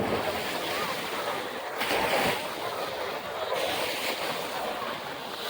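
Ocean surf washing on the beach, with wind buffeting the microphone. A wave or gust swells briefly about two seconds in.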